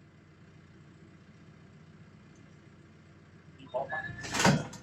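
Vehicle engine idling faintly and steadily. Near the end comes a short burst of sound: a couple of brief squeaks, then a loud, sharp noise.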